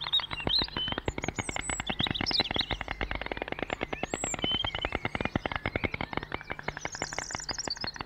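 Small birds chirping and twittering in short calls and sweeps, with a fast high trill near the end, over a dense run of rapid clicks.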